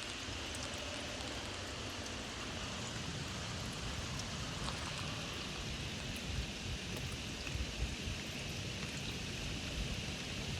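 Rain squall: a steady hiss of heavy rain, with gusty wind rumbling low on the microphone and a few stronger gusts between six and eight seconds in.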